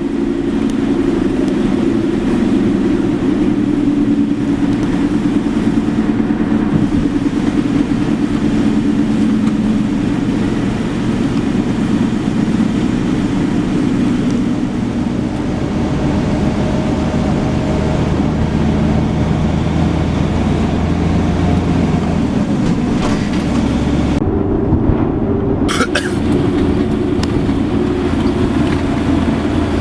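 A motor vehicle running steadily: a continuous engine hum with road noise, a short sharp sound about 26 seconds in.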